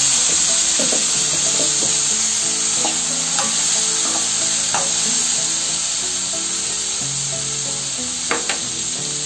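Boiled black chickpeas sizzling in hot oil with their tempering as a spatula stirs them round the pan. There are a few sharp clicks of the spatula against the pan, two close together near the end.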